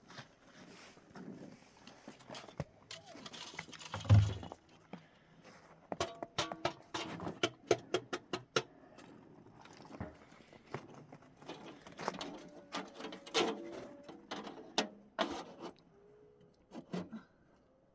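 Irregular sharp clicks and knocks of objects being handled, with a heavier thump about four seconds in and thick clusters of clicks in the middle and later part.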